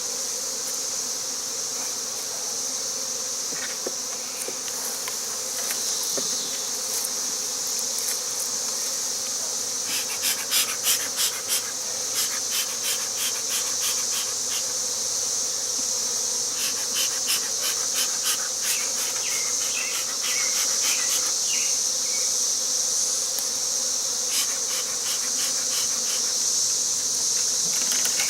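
Honey bees buzzing in a steady hum, with a steady high-pitched insect drone above it. Runs of rapid ticking come in about ten seconds in and again later.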